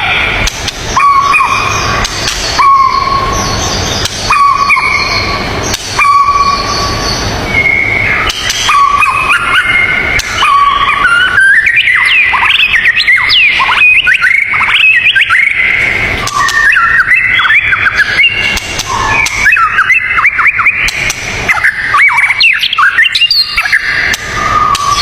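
Songbirds singing: a short whistled note repeated every second or two, then from about eight seconds a fast jumble of chirps and sliding whistles, over a steady noisy background.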